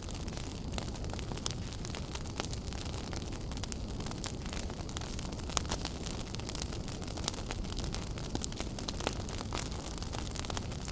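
Wood fire burning in a fireplace, with a steady low rumble of flames and many sharp crackles and pops at irregular intervals.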